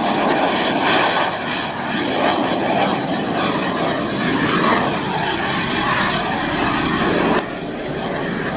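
Jet engine noise from a CT-114 Tutor turbojet trainer at takeoff, a loud dense rushing sound that swells and eases. About seven seconds in a sharp click is heard and the level drops suddenly.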